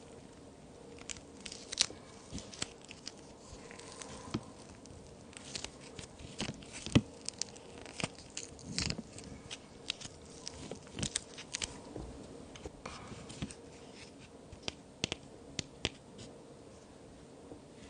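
Plaster-and-clay cookies being broken apart: irregular sharp cracks and crumbly crackling, the loudest snap about seven seconds in.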